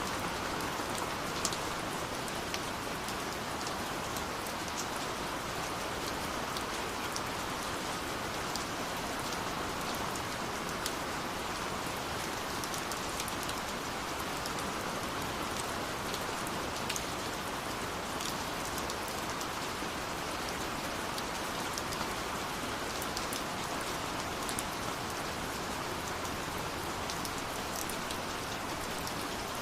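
Steady rush of falling water from a waterfall, with the occasional sharp pop and crackle of a burning wood fire every few seconds.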